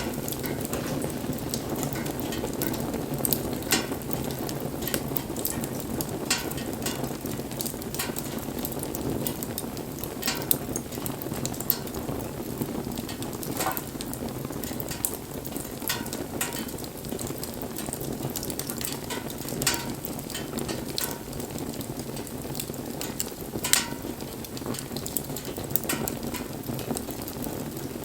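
Wood campfire burning: a steady rush of flame with sharp crackles and pops scattered through it, every second or so, and one louder pop a little past two-thirds of the way in.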